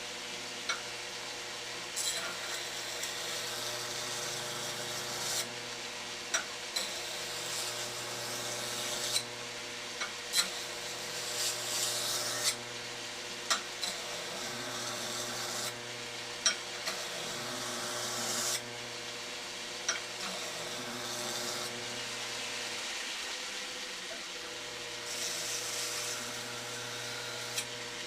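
Burr King belt grinder running with a steady motor hum while a steel knife blade is finish-ground on a 120-grit belt. The blade is pressed to the belt in repeated passes of a couple of seconds each, so the grinding hiss rises and falls, with occasional sharp clicks.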